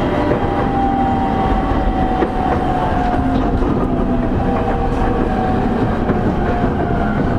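JR E231 series 0-subseries commuter train heard from inside a motor car: steady running rumble with a whine from the traction motors and inverter that falls slowly in pitch as the train slows, and light knocks from the wheels over the track.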